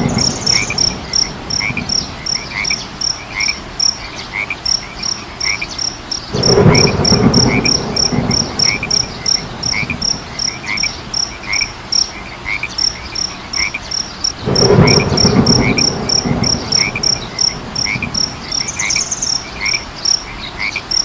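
Night chorus of frogs croaking, swelling loudly twice, about six and fourteen seconds in, over a steady train of high-pitched pips about four a second and a row of repeated chirps.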